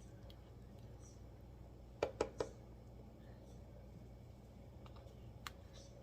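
Three quick, sharp clicks of a kitchen utensil against cookware about two seconds in, and one more click near the end, over a low steady hum.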